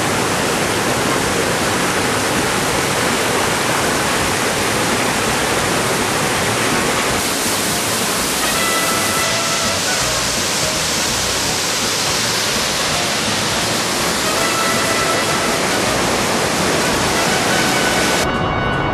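Loud, steady rush of falling water from a waterfall, cutting in suddenly at the start and dropping off abruptly near the end.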